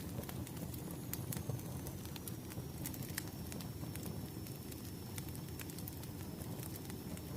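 Burning firewood crackling: a low steady rumble of flames with irregular sharp pops and snaps.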